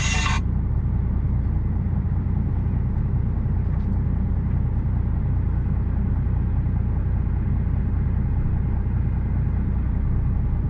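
Steady low rumble of an HGV lorry's engine, heard from inside the cab. Music cuts off about half a second in.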